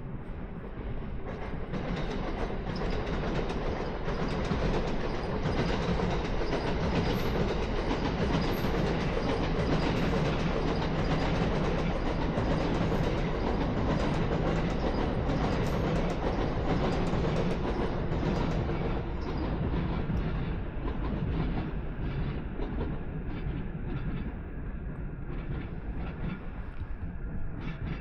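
A train passing on rails: it builds over the first couple of seconds, stays loud for about fifteen seconds, then fades away.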